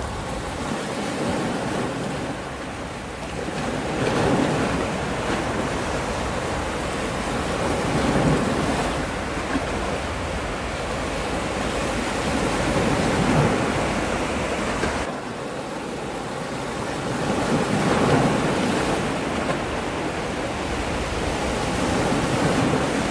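Sea waves washing onto the shore in a steady rush that swells about every four to five seconds, with some wind noise on the microphone.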